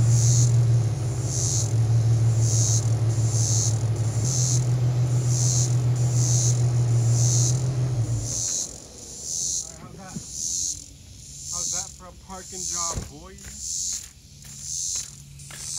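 Infiniti G37's 3.7-litre V6 idling, a steady low hum that stops about eight seconds in. Insects call throughout in a steady high pulse, a little under two a second. After the engine stops, faint short chirps and a single knock can be heard.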